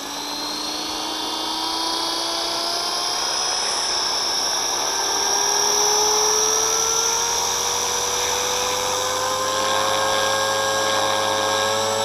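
Walkera V450D01 RC helicopter's electric motor and main rotor running with a high whine that rises slowly and steadily in pitch as the rotor speeds up.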